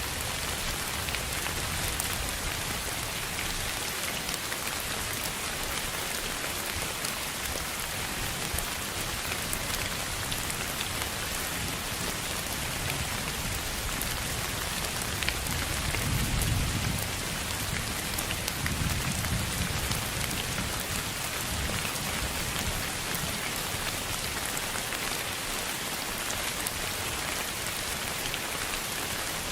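Steady rain falling on a surface, a dense hiss full of fine pattering drop ticks. A low rumble swells briefly just past the middle.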